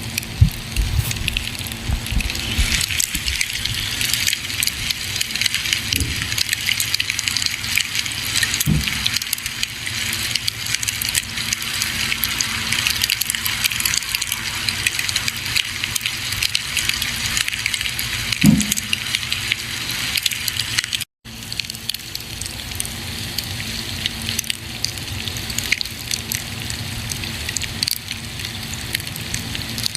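Campfire burning, wood crackling steadily with a hissing rush and many sharp little pops, and a few deeper soft thumps. The sound cuts out for a split second about 21 seconds in.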